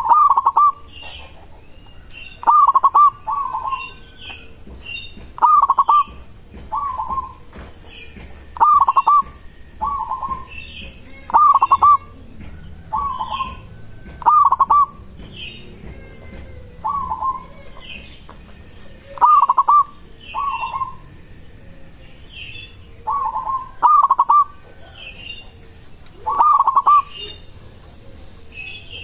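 Zebra dove (perkutut) cooing: short two-note phrases, the first note louder, repeated every two to three seconds, with fainter high chirping notes between them.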